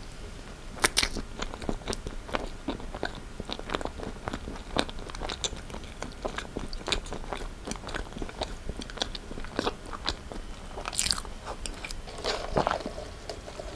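Close-miked chewing of a caramel cake with crisp puffed-rice bits and nuts in its cream, heard as an uneven run of small crisp crunches and mouth clicks. The loudest crunch comes about a second in.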